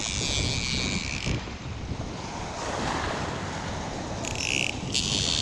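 Wind buffeting the microphone with a steady low rumble. A high, shrill insect drone cuts in for the first second and again near the end.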